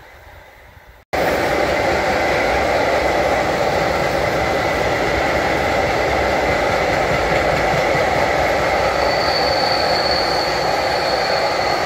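After a faint fading rumble and an abrupt cut about a second in, a long freight train of high-sided wagons rolls past close by: a loud steady rumble and rattle of wheels on rails. A high steady wheel squeal joins in from about nine seconds in.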